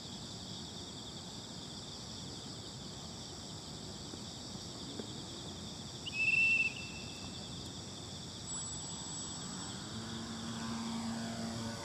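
Steady chorus of crickets and other insects, with one short high-pitched tone about six seconds in and a faint low hum starting near the end.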